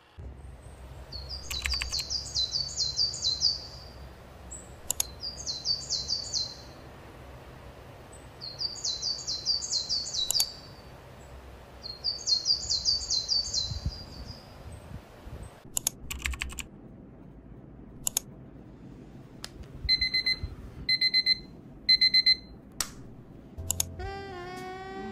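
A songbird singing a repeated phrase of quick falling notes, about every three to four seconds, with scattered sharp clicks. Later, an alarm clock beeps three times, evenly spaced about a second apart.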